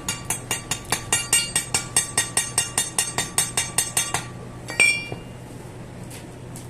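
Metal being struck in a fast, even series of ringing clinks, about five a second, for about four seconds. Then comes a pause and one louder, ringing clink.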